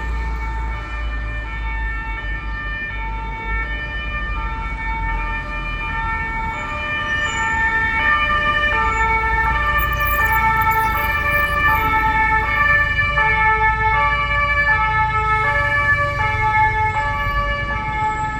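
Emergency vehicle's two-tone siren alternating between two pitches about every half second, over low traffic noise; it grows louder about halfway through and eases off near the end as the vehicle passes.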